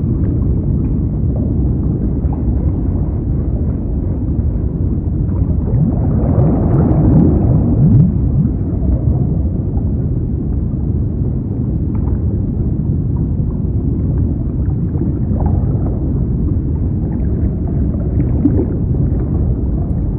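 Water: a steady, low, muffled rushing, with a louder gurgling swell about six to eight seconds in.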